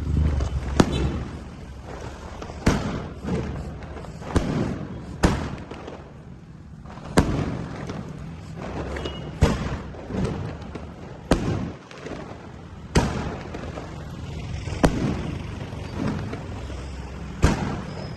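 Fireworks going off: a string of sharp bangs, one every second or two, with crackling and hiss between them.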